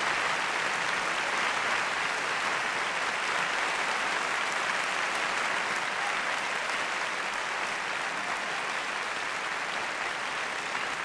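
Large theatre audience applauding steadily, dying away slowly near the end.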